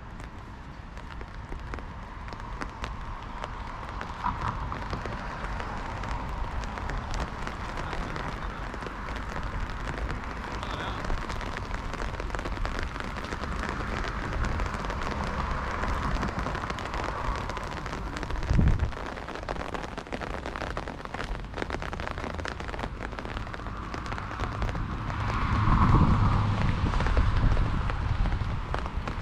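Heavy rain falling on the street, a dense patter of drops. There is a short low thud about two-thirds of the way through and a louder swell of noise near the end.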